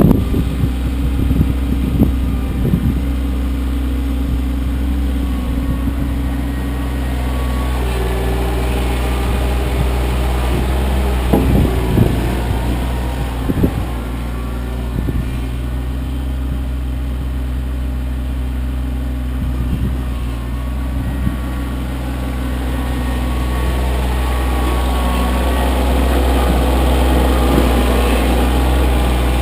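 Kioti CK25 compact tractor's three-cylinder diesel engine running steadily, with a few short knocks and clunks at the start and around the middle.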